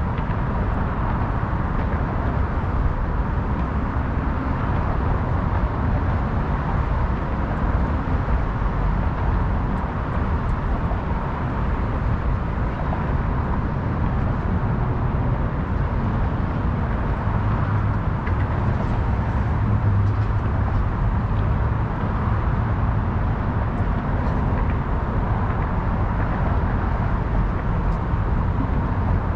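Steady, unbroken hum of city traffic, passing cars blending into one continuous wash of noise with no single vehicle standing out.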